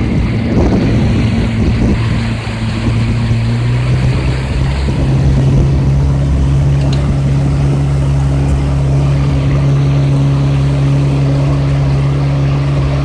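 Yamaha 115 hp two-stroke outboard motor running steadily under way, its pitch stepping up a little about four seconds in and then holding.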